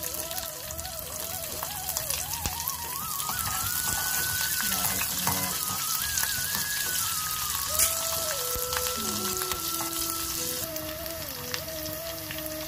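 Sliced green chillies sizzling in hot oil with fried cumin seeds in an aluminium kadai, the steady frying hiss of a tempering, with the steel ladle clicking against the pan now and then. Background music plays over it.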